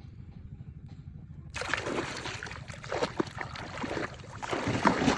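Water splashing and sloshing in irregular bursts, starting about a second and a half in, over a steady low rumble.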